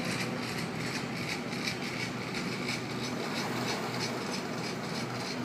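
Sydney Trains Waratah double-deck electric train departing and running away down the line, a steady rolling noise.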